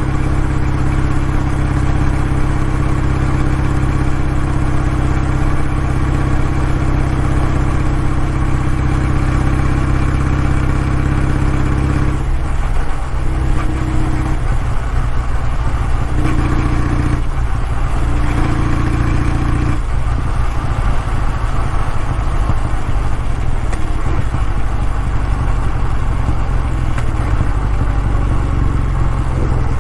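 Kawasaki W650's air-cooled parallel-twin engine and exhaust running steadily. Its tone breaks up and shifts for several seconds from about twelve seconds in, then settles back to a steady low note.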